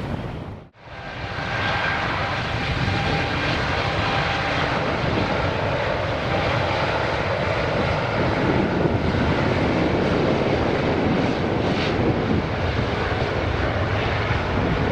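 Airbus A350-900's Rolls-Royce Trent XWB jet engines at takeoff power: a steady, loud roar with a faint whine through it. It drops out briefly about a second in, then comes back.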